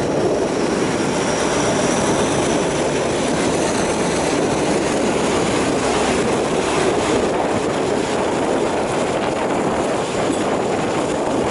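Passenger train carriage running along the track, a steady noise of wheels on rails heard from its open side.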